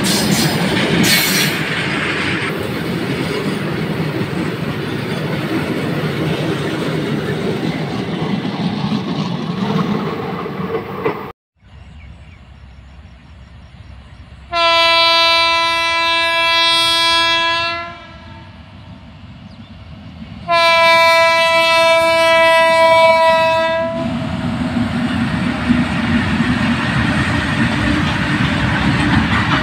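Loaded freight wagons rolling past close by, a steady rumble with wheel clickety-clack. After a cut, an Indian Railways WAG-9 electric locomotive sounds two long horn blasts, each about three seconds, and its train's rumble then builds as it comes nearer.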